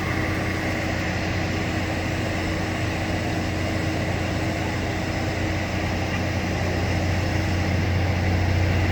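Engine of a rail-maintenance machine running steadily, a constant low hum with a steady higher tone above it, growing slightly louder near the end.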